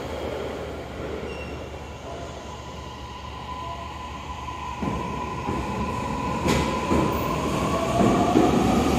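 Toei Mita Line 6500 series electric train pulling into the station platform, growing louder as it nears. It gives a steady whine, with a second tone rising near the end and a few knocks about halfway through.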